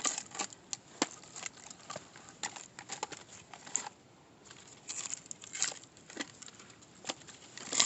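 Scattered, irregular light knocks, clicks and crackles of split pieces of wood being handled, with no power tool running.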